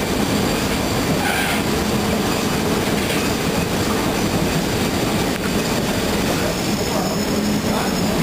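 Open-sided railroad passenger car rolling along the track, heard from aboard: a steady rumble of wheels and rail noise. A faint high wheel squeal comes in near the end.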